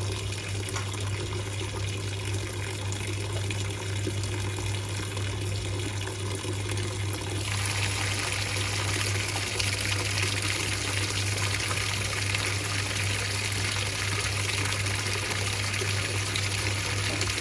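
Water pouring into the tub of a Whirlpool 3RLSQ8033SWD top-loading washing machine as it fills for a wash, with a steady low hum underneath. About seven seconds in the water sound becomes brighter and hissier.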